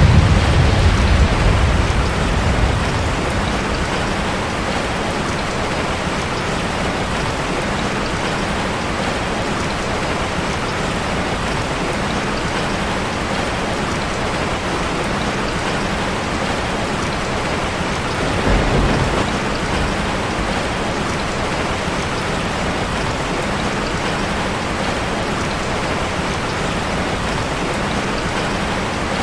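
Steady heavy rain drumming on a metal roof, with low rumbles of thunder at the start and again about two-thirds of the way through.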